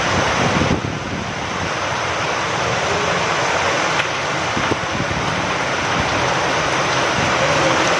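Steady rain falling with wind, an even hiss that dips briefly about a second in.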